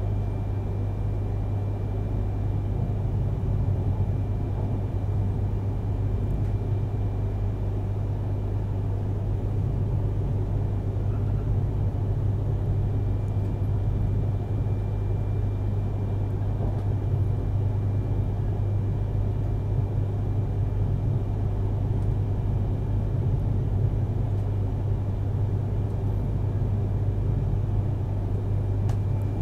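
Cabin noise inside a JR East E3 series mini-shinkansen car under way on conventional track: a steady low rumble and hum from the running gear, with a faint high tone held throughout.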